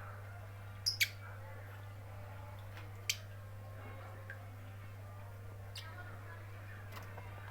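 Lovebird giving a few short, sharp high-pitched chirps: two in quick succession about a second in, a louder single one near three seconds, and fainter ones later, over a steady low hum.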